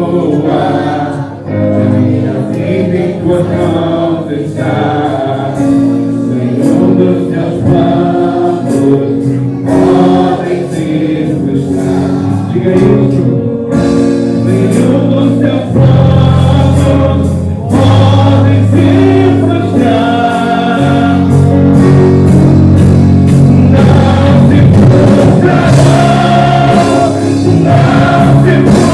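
Portuguese gospel worship music: a group of singers performing a slow hymn of praise over a live band, the bass and drums growing fuller about halfway through.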